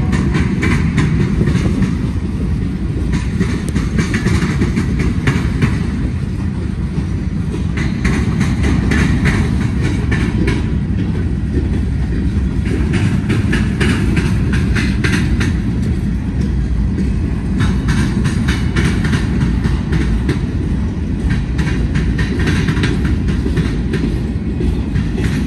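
Freight train of tank cars, boxcars and empty centerbeam flatcars rolling past at close range: a steady, loud rumble of wheels on rail, with repeated groups of sharp clicks as the wheelsets pass over the rail joints.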